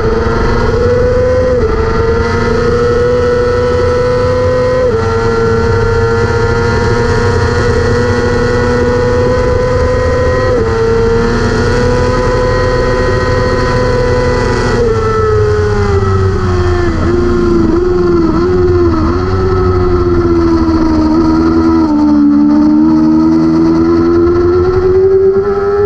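A 600cc superbike engine running at high revs. The pitch holds nearly steady with brief drops at upshifts, then falls and wavers through downshifts and climbs again near the end as the bike accelerates out.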